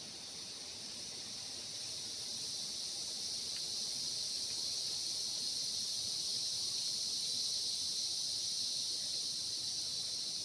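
A forest insect chorus: a steady, high-pitched buzzing drone that swells over the first few seconds, then holds steady.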